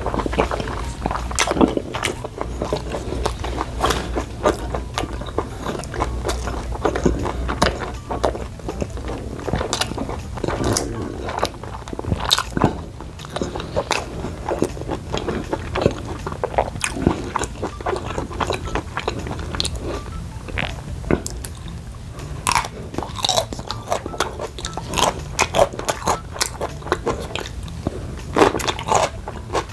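Close-miked eating: biting, chewing and crunching of grilled beef steak and broccoli, with many quick wet mouth clicks over a steady low hum.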